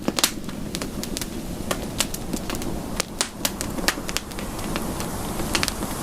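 Campfire crackling: irregular sharp pops and snaps, several a second, over a steady low rush of burning.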